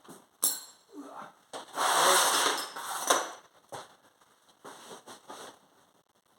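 Workshop handling noises. There is a sharp knock about half a second in, then a rough noisy burst lasting over a second around two seconds in, then scattered clicks and knocks.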